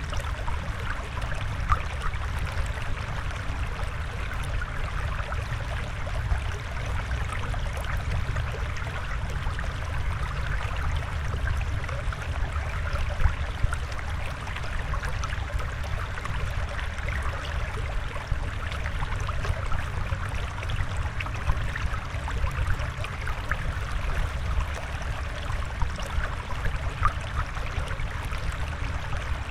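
Flowing water, a steady, even rush with no piano playing over it.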